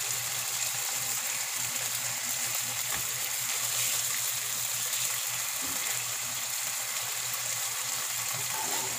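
Tuna steaks and garlic sizzling steadily in a nonstick frying pan as a spatula turns the steaks.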